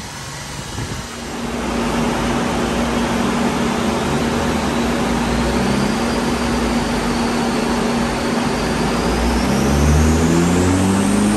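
Honda Civic Type R FN2's K20 four-cylinder engine running the car on a rolling road: it rises in level about a second in and holds a steady note, then starts revving up near the end, with a high whine climbing in pitch along with it.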